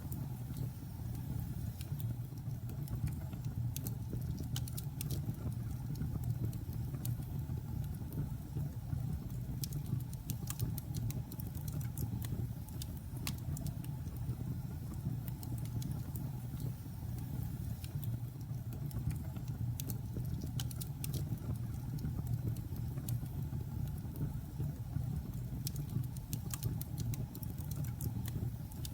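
Logs burning in a fireplace: a steady low rumble of the fire with scattered sharp crackles and pops, bunched in short flurries here and there.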